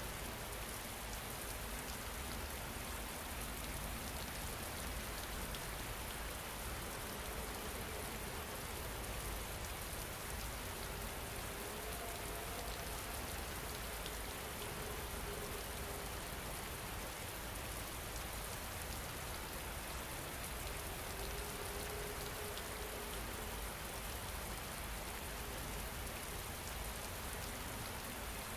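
Steady rain falling, an even hiss without a break. A faint held tone drifts in twice, once around the middle and once later on.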